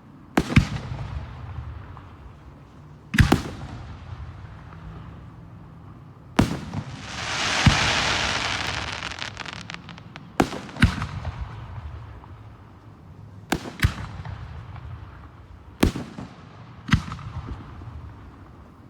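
Fireworks display: aerial shells bursting with sharp booms every one to three seconds, some in quick pairs, with a hissing, crackling burst lasting about two seconds around the middle.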